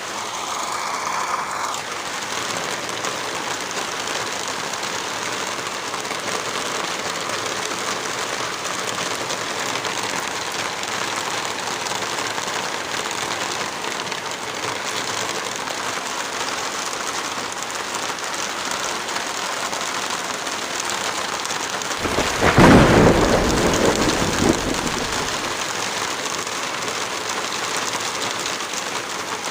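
Heavy rain falling steadily. About three quarters of the way through, a loud deep rumble swells and fades over a few seconds.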